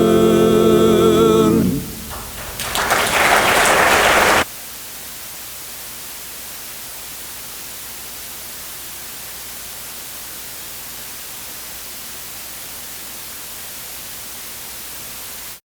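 A barbershop quartet holds its final a cappella chord, which stops a little under two seconds in. Audience applause then breaks out and is cut off suddenly about four seconds in, leaving a steady hiss.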